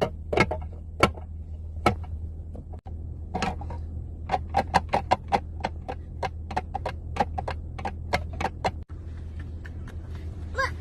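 A run of sharp taps or clicks, a few at first and then about three or four a second, over a steady low hum inside a parked car.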